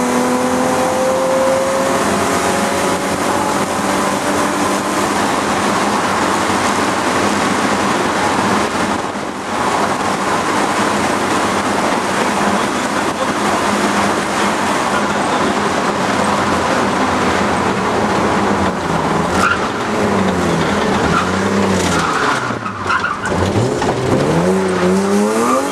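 BMW E36 rally car's engine heard from inside the cabin under hard acceleration: the revs climb at first, then a loud steady drive noise with a brief lift about nine seconds in. Near the end the revs fall and rise again several times.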